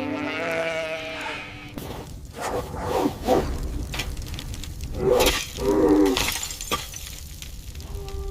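Sheep bleating in wavering calls, once near the start and again about five seconds in, with several sharp cracks and a steady low rumble underneath.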